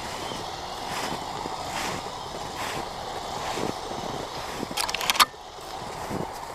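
Kyosho Blizzard RC snowcat with Traxxas 380 electric motors running, its tracks churning through snow with a steady hiss and crunch. A brief loud crackling burst comes about five seconds in.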